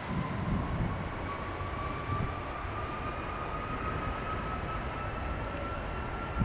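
Airbus A330-300 jet engines at takeoff power, a steady roar with a thin whine that rises slowly in pitch.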